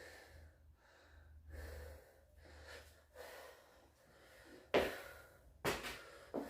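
A man breathing hard during a deadlift workout, with a series of audible inhales and exhales. Near the end come three sharp, forceful gasps or exhales, louder than the rest.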